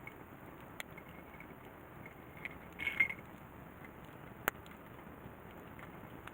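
Campfire burning with a few sharp crackling pops over a steady hiss, and a short ringing clink about three seconds in.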